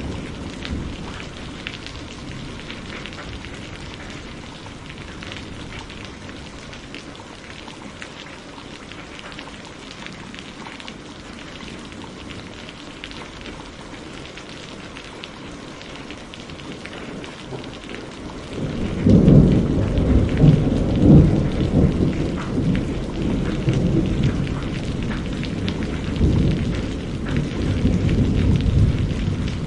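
Steady rain falling, with a fine patter of drops. About two-thirds of the way in, a loud, deep rumble of thunder rolls in suddenly, swelling and easing for around ten seconds.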